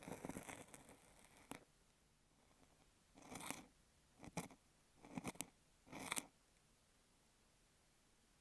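Kinetic sand being worked with an ear pick right against an earphone microphone. There is a crackly stretch lasting about a second and a half, then four short separate scraping strokes with pauses between them.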